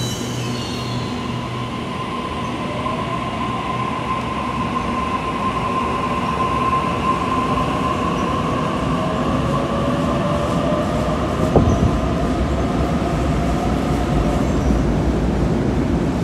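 Sydney Trains double-deck electric train moving through an underground station platform, its wheels squealing in a steady high tone while a fainter motor whine climbs in pitch and the rumble slowly grows louder. One sharp knock sounds about eleven and a half seconds in.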